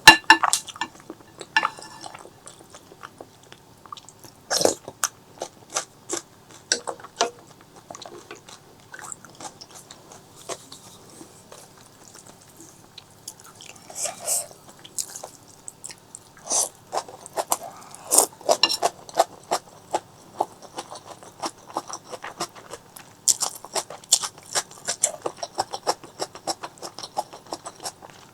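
Close-miked eating sounds: biting, crunching and wet chewing, made up of many short sharp clicks and smacks.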